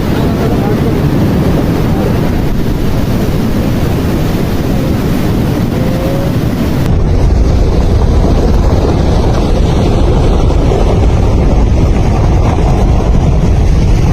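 Loud, steady rush of floodwater with wind buffeting the microphone. About seven seconds in the sound changes abruptly, losing its hiss and becoming a deeper rumble.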